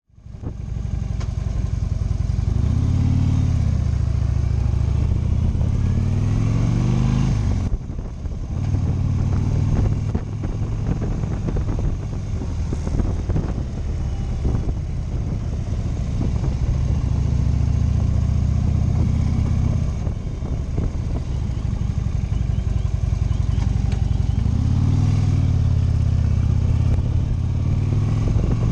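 Motorcycle engine running while riding, its pitch rising several times as it accelerates, with a short drop in level about eight seconds in.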